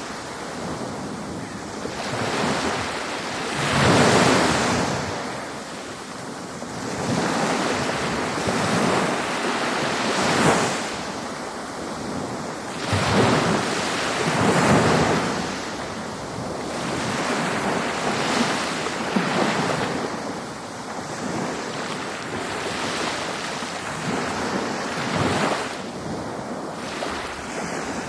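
Ocean surf: waves breaking and washing in, swelling loud every few seconds over a continuous rush of water.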